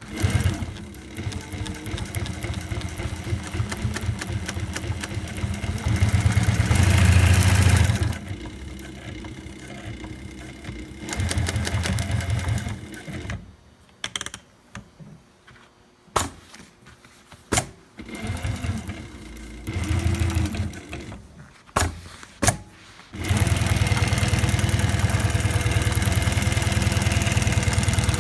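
SEWPRO 1508L-18H long-arm walking-foot industrial sewing machine stitching in runs of changing speed, fastest a few seconds in. It stops and starts again through the middle, with a few sharp clicks in the pauses. Near the end it settles into a steady fast run.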